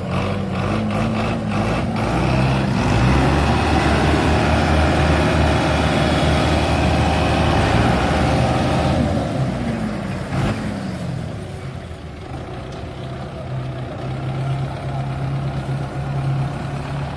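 Belarus tractor's diesel engine running hard and loud, then easing off about ten seconds in with a drop in pitch, and running on steadily at a lower level.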